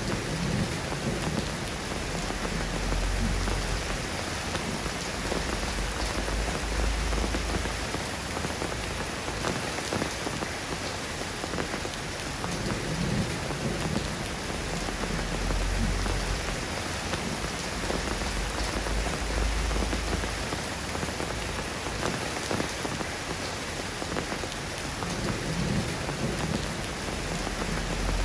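Steady soft rain falling, an even hiss of drops, with a few slow low rumbles swelling underneath.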